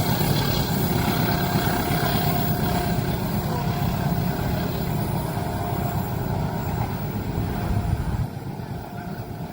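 Steady, loud low rumble of heavy traffic passing at a railway level crossing, falling away about eight seconds in.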